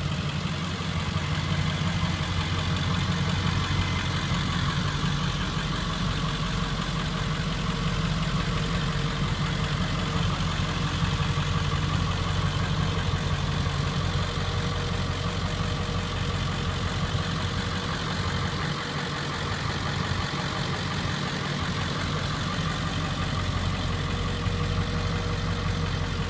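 Ford 7.3 L Powerstroke V8 turbo diesel idling steadily.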